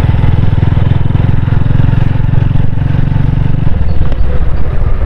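Honda Hornet 160R's single-cylinder engine running steadily at low speed while riding, heard from on the bike as a steady low rumble of firing pulses.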